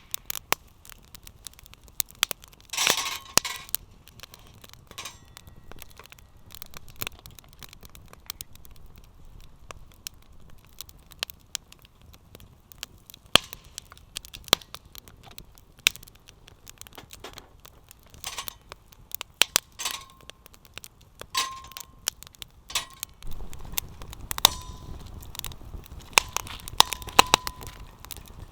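Wood campfire crackling and snapping irregularly, with a few light metallic clinks of cookware.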